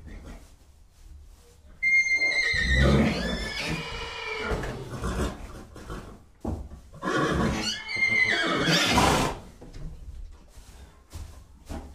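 Horse whinnying twice, two long neighs that start high and fall away, about five seconds apart, with quieter breathy sounds between and after.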